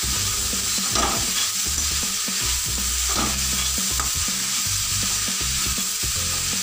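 Chopped vegetables sautéing in hot oil in a metal kadai: a steady sizzle, with a metal spatula stirring and scraping through them, strokes standing out about a second and three seconds in.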